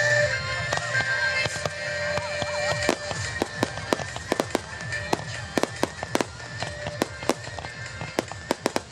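Fireworks going off in a rapid series of sharp bangs over music. The bangs start about three seconds in and come faster and faster toward the end.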